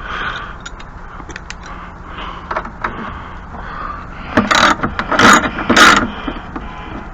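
Hand tools working on a snow thrower's skid plate: scattered small metal clicks, then three or four loud, short scraping strokes in the second half.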